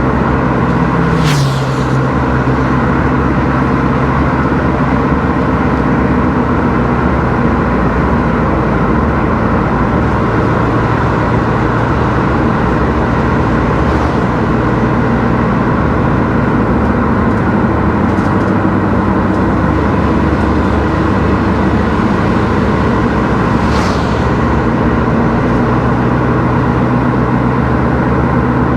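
A car driving steadily on the road: engine hum and tyre and road noise with no change in pace, and a brief whoosh about a second in and another near the end.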